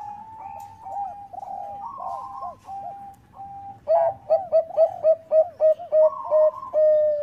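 Zebra dove (Bangkok-bred perkutut) cooing. Softer coos come first. About four seconds in, a loud, quick series of rising-and-falling coos follows, about four a second, ending in a longer held note that cuts off suddenly.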